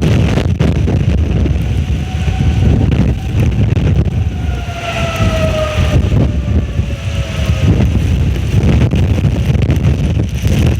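Strong wind gusting and buffeting the microphone in a wind storm, a constant low rumble. In the middle a faint whistling tone rises out of it and slowly falls in pitch for several seconds.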